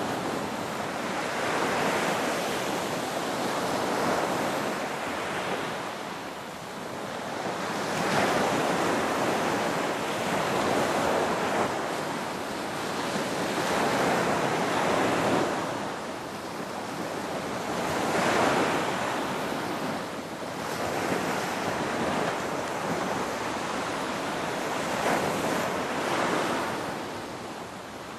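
Ocean surf: waves breaking and washing in as a continuous rush that swells and eases every few seconds in an irregular rhythm.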